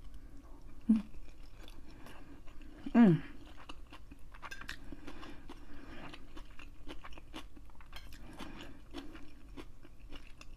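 A person chewing a mouthful of hibachi steak, chicken and rice, with soft wet mouth clicks and smacks. A short hum comes about a second in, and a louder hum falling in pitch, an appreciative "mmm", about three seconds in.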